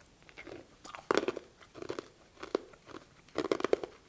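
Close-miked chewing of crisp cucumber from a cold cucumber soup, in several short bouts of crunching.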